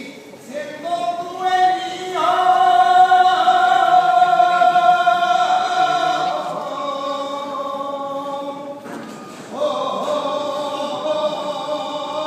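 A saeta sung unaccompanied by a single voice: long held notes bent with flamenco-style ornaments, with a break for breath about nine seconds in before the line resumes.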